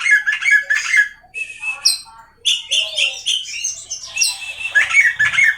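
Oriental magpie-robin singing a rapid, varied song of whistles and harsh chattering notes, with a long held whistle near the end.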